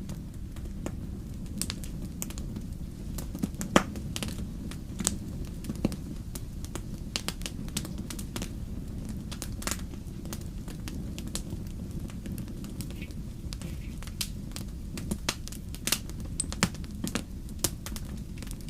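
Wood fire crackling: a steady low rumble of burning logs with irregular sharp pops and snaps, a few louder ones.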